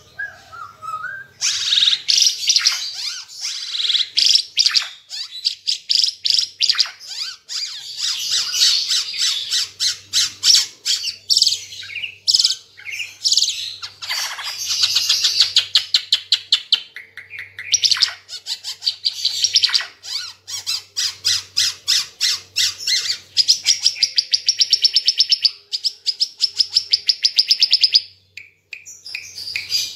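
Ara Timor (green figbird) singing a loud, fast chattering song of rapid high notes, which breaks into quick even trills near the end before a short pause.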